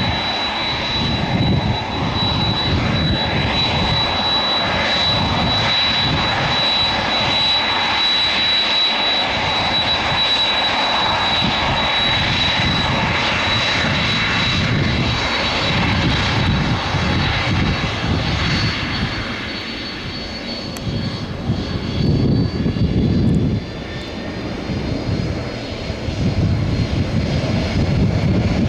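Jet engines of a heavy airliner at takeoff power, a loud steady jet noise with a pulsing low rumble. A high whine from the engine fans fades away about halfway through.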